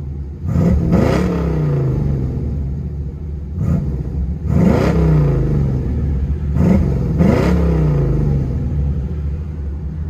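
1984 Corvette C4's 5.7 L Cross-Fire Injection V8 blipped about six times, some blips in quick pairs, through a true dual exhaust with high-flow catalytic converters and Flowmaster Outlaw mufflers. Each rev climbs sharply and falls back to idle.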